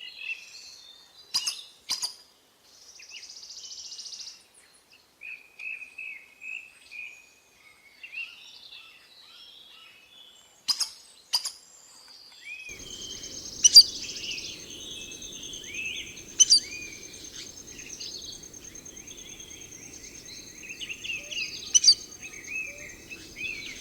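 Several wild birds calling and chirping, with a few sharp clicks scattered through. About halfway through, a steady high-pitched whine and a low rumble set in under the calls.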